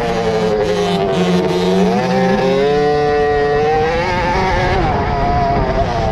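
Several 50cc two-stroke youth motocross minibikes racing, engines revving hard; the pitch drops about two seconds in, then climbs and holds high as the bikes run on the throttle.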